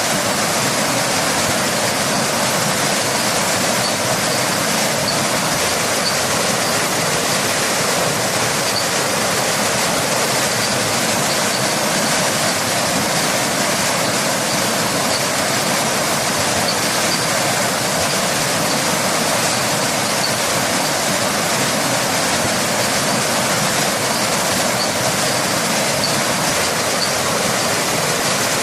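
Waterfall: a steady, unbroken rush of falling water, with faint high ticks now and then.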